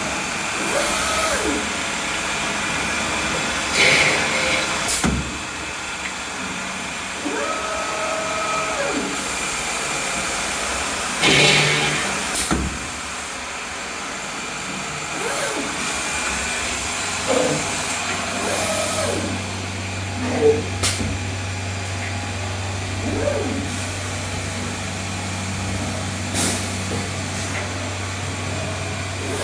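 SCM Startech woodworking CNC machine running over a steady rushing noise of extraction or vacuum. Its axis motors whine up and down in pitch again and again as the head moves, with a few sharp clicks and two short bursts of air hiss. A low steady hum comes in about two-thirds of the way through.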